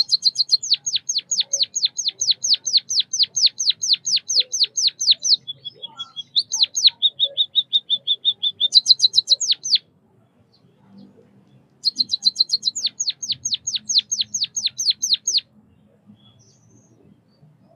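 White-headed munia singing: fast runs of high, downward-sweeping notes, about five a second. A lower buzzy trill comes in about six seconds in, then the song stops for about two seconds before another run of the same sweeping notes.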